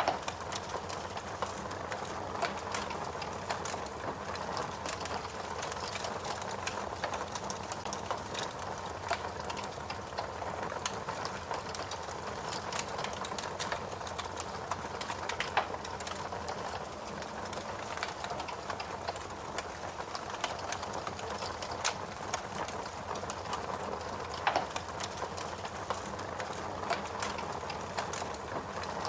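Fire crackling: a steady stream of small snaps and pops over a low hiss, with a few louder pops.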